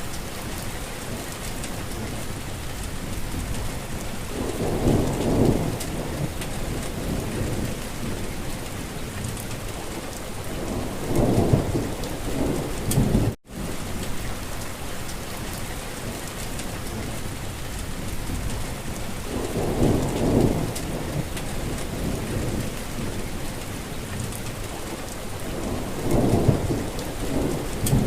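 Steady rain falling, with a low rumble swelling up four times, about every six to seven seconds. The sound cuts out for an instant about halfway through.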